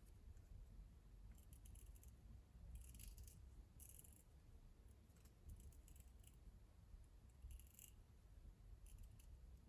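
Near silence broken by a handful of faint, short rustles and clicks from paper and packaging being handled.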